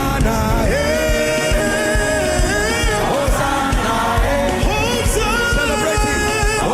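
Gospel worship music: singers and a choir over a band with a steady drum beat.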